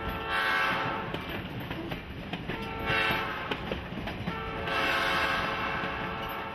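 Train horn sounding in three blasts, long, short, long, over the continuous rumble of the moving train.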